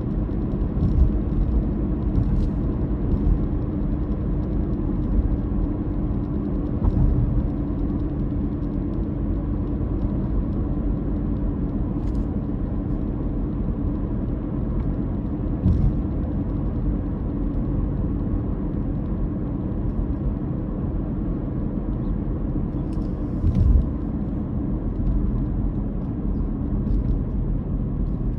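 A car driving along: the engine drones steadily under a constant low road rumble, with a few brief thumps from bumps in the road.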